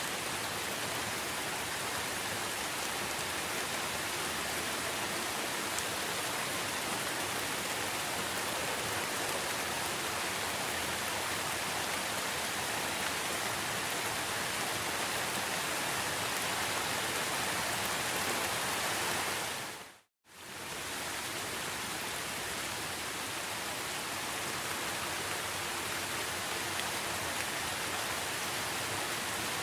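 Steady rain falling, a dense even hiss. About two-thirds of the way through it fades out to silence for a moment and fades straight back in, like a loop point in the recording.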